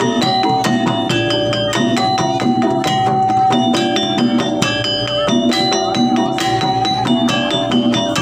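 Live jaranan gamelan music: struck metallophones and drums playing a dense, fast, even pattern, with held melodic notes running over it.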